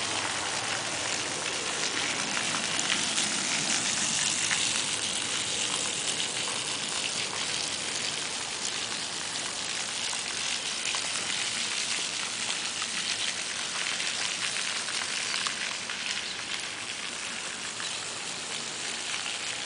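Steady hiss with a fine, light patter, strongest in the high range, holding even throughout.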